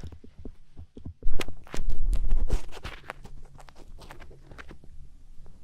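Close-miked ear-cleaning sounds on a binaural microphone's ear: scratchy clicks and scrapes, with a loud muffled rubbing that begins a little over a second in and lasts about a second and a half, then lighter scratching.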